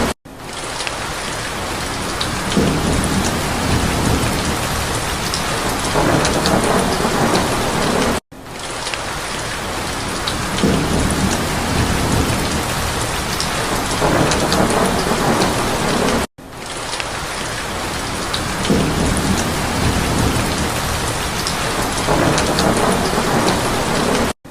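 Steady rain with low rolls of thunder. It is a loop of about eight seconds that repeats three times, with a brief drop-out at each join.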